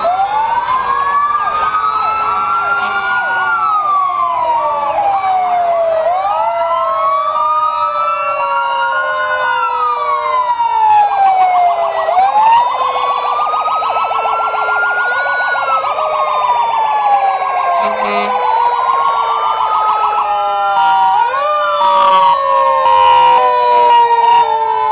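Several emergency-vehicle sirens sounding at once as the vehicles pass: long wails rising and falling about every six seconds, stretches of fast yelping, and a lower tone that slowly falls.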